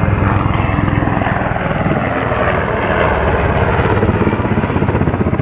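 HH-60G Pave Hawk rescue helicopter running close, its rotor beating fast and steadily over the turbine noise.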